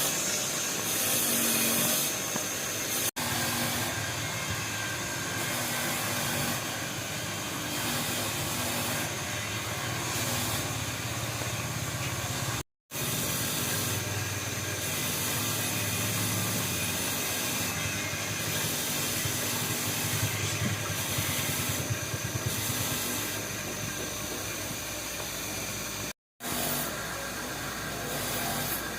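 Steady workshop machine noise with a hiss and a steady high whine, cut off briefly three times by edits.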